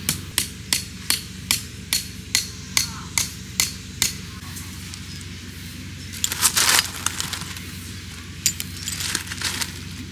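A hammer striking in a steady run of even blows, about two and a half a second, that stops about four seconds in. About six seconds in there is a short, louder clattering noise, and a few lighter clicks near the end.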